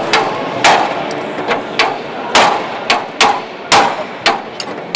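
Steel hammer blows on a chisel against car body steel: about nine sharp metallic strikes at an uneven pace, each ringing briefly. The work is cutting through the spot welds that hold a Triumph TR7's body panel.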